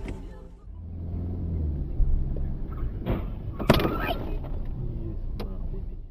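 Car driving: a steady low engine and road rumble, with a knock about two seconds in and a sharper, louder knock a little before four seconds in.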